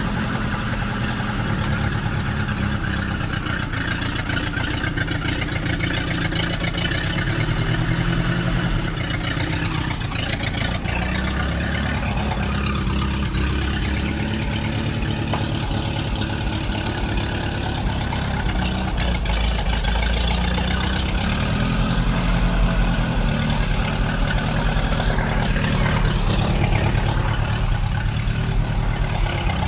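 Vehicle engine running steadily near idle, with low, even pitch that shifts a little and grows slightly louder after the middle.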